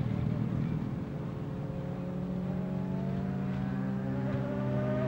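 Racing motorcycle engines running. From about 3 seconds in, one engine climbs steadily in pitch as it revs up.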